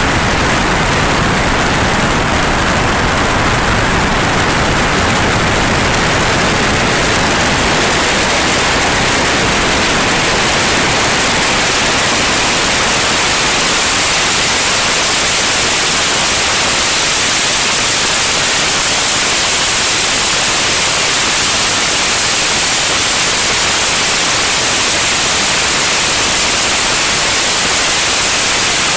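Steady, loud rushing noise of a light aircraft in flight, with airflow and engine noise blended into an even hiss with no clear engine note. The low end thins slightly partway through.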